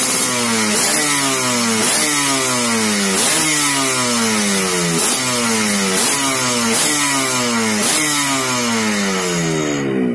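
Yamaha RX-King two-stroke single-cylinder motorcycle engine being blipped over and over, about once a second, each rev jumping up and then falling away.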